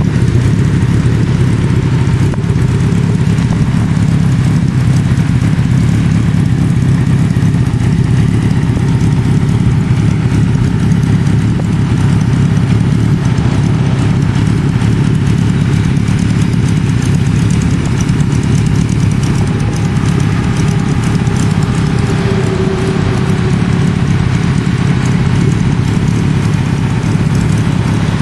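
Kawasaki KZ1000's air-cooled inline-four engine idling steadily, with no revving.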